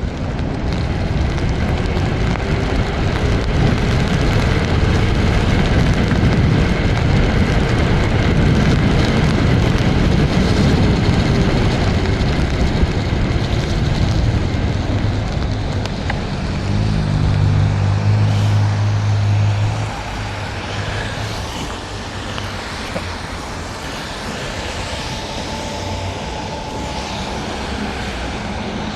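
Wind buffeting the microphone and wet road noise while riding an electric scooter through rain and snow, building up over the first couple of seconds as it gets under way. A low steady hum stands out for a few seconds about two-thirds of the way through.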